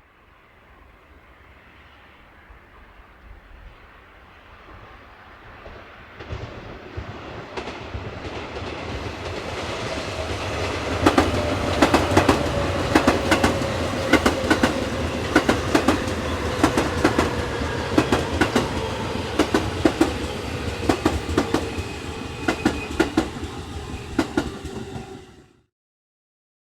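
An electric train coming up and running along the platform, building from faint to loud. Once it is close there is a dense clatter of wheels over rail joints, over a motor whine that falls slowly in pitch. The sound cuts off suddenly near the end.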